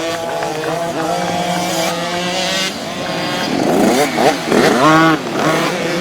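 Several youth motocross bikes racing on a dirt track, engines revving up and down through the gears. About four to five seconds in, a group of bikes rev hard, their engine pitch rising and falling quickly.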